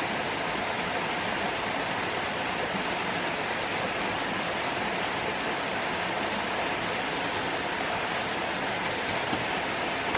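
Steady, unchanging rushing noise with no rhythm or distinct events.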